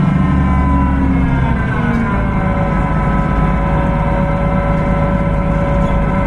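Cummins ISB6.7 diesel engine of a Solaris Urbino 18 hybrid articulated bus running under a steady low rumble, with a whine that falls in pitch over the first two seconds or so and then holds steady. The uploader flags a belt problem and engine failure on this bus.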